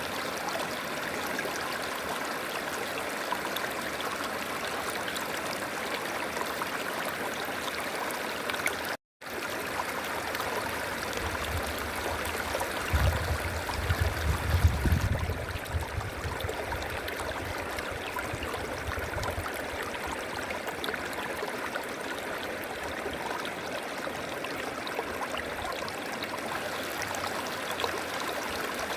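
River water flowing and babbling steadily. The sound cuts out completely for a moment about nine seconds in, and a low rumble rises and falls in the middle of the stretch.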